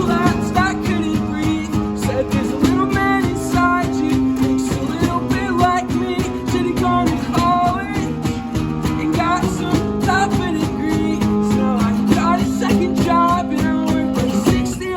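Acoustic guitars strumming a steady rhythm, with a melody line over the chords; the playing stops at the end.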